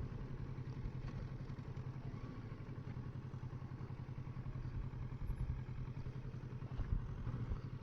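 Kawasaki Versys 650's parallel-twin engine running steadily at low speed as the motorcycle rolls along.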